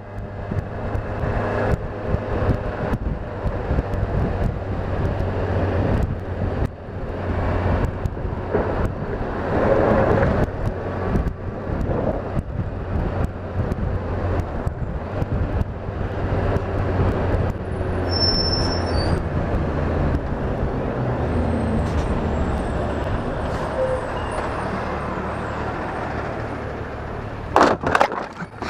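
Motorcycle engine running in slow traffic during lane splitting, its low note shifting in steps, with passing traffic noise around it. Near the end a few sharp loud knocks, the motorcycle being struck by an opened car door.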